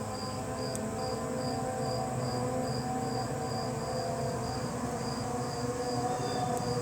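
Crickets chirping steadily, about three chirps a second, over a low steady hum.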